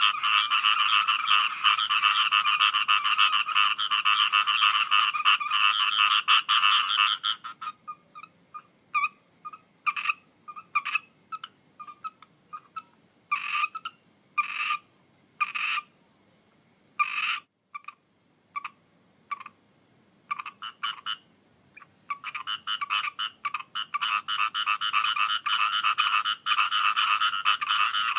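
A chorus of frogs croaking. The dense calling thins about a quarter of the way in to scattered single croaks, then builds back to a full chorus in the last quarter.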